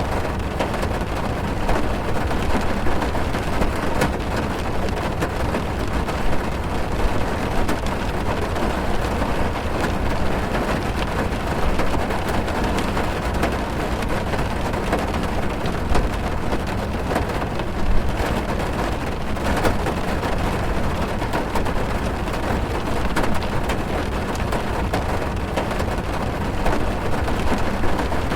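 Steady rain drumming on a car's roof and windows, heard from inside the car as a dense patter of drops with a low rumble underneath.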